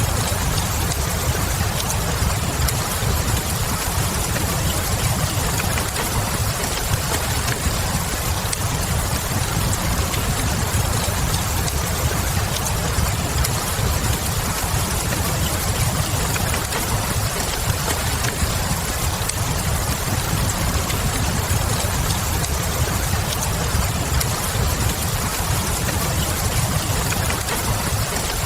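Steady rain over a low, even rumble, mixed with the soft crackle of a wood fire, a few faint pops scattered through it.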